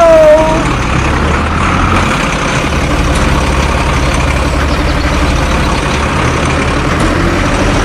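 Heavy diesel truck engine running steadily at idle, its low note changing slightly about two seconds in.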